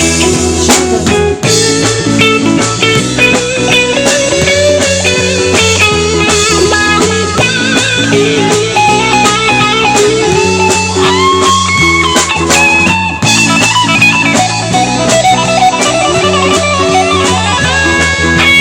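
Live rock band playing an instrumental break: a lead electric guitar plays a melodic line with some sliding, bending notes over bass and drums.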